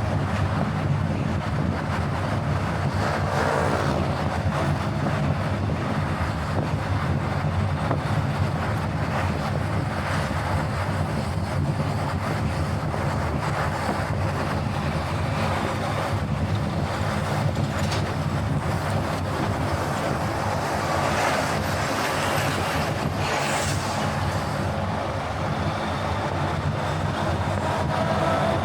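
Car driving along a road: steady engine hum and tyre noise.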